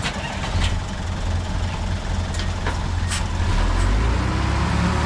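Heavy diesel engine of construction equipment running with a low, steady rumble that rises in load about three and a half seconds in. A few short hisses or clanks cut across it.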